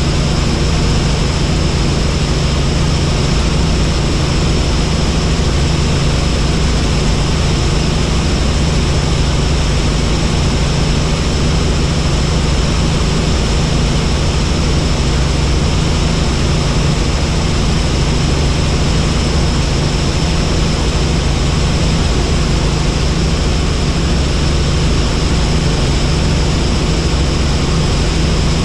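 Helicopter in steady flight: a loud, even drone of rotor and engine with a thin high whine over it.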